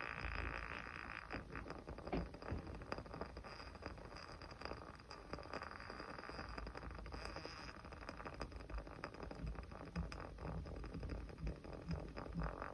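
A small fire crackling quietly, with irregular sharp pops and ticks over a faint hiss; a slightly louder pop comes about two seconds in and another around ten seconds.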